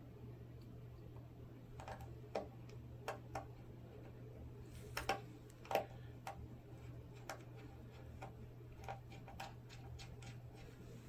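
Scattered small clicks and taps of a screwdriver and small screws being worked on a laptop's screen assembly as it is screwed back on, a few sharper clicks near the middle. A steady low hum runs beneath.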